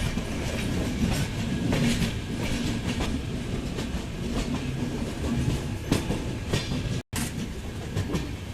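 Train running along the track: a steady low rumble with irregular clacks as the wheels pass over rail joints. The sound cuts out for a split second about seven seconds in.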